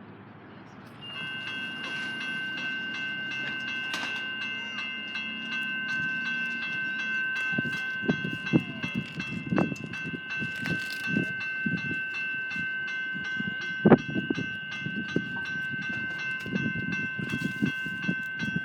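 Level crossing's electronic bell starting about a second in and ringing steadily. From about halfway through, the wheels of a passing suburban electric train thump over the rail joints in an uneven clatter.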